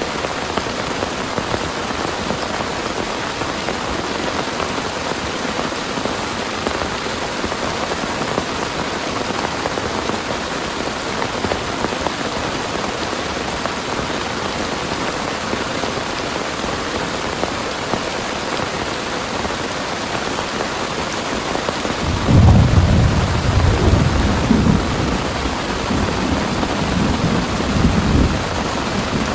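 Heavy rain pouring steadily. About three-quarters of the way in, a long low rumble of thunder rolls in and carries on for several seconds.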